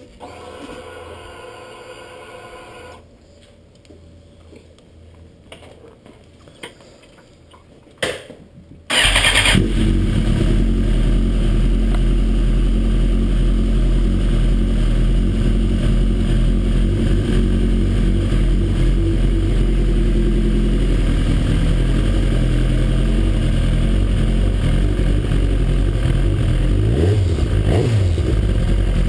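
2007 Suzuki GSX-R 1100cc inline-four sportbike: a faint hum for a few seconds after the ignition is switched on (fuel pump priming), then a short burst of starter cranking about eight seconds in, and the engine catches and idles loudly. Near the end its pitch rises and falls briefly.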